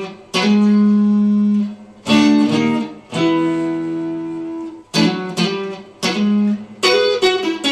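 Guitar playing chords, each struck and left to ring for a second or so, then several quicker strikes in the second half.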